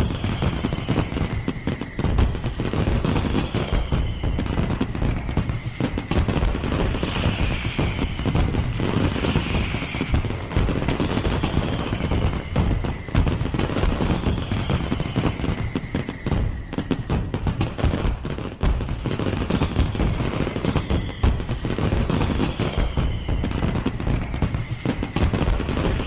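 Firework display going off: a dense, continuous barrage of rapid bangs and crackles, with faint falling whistles.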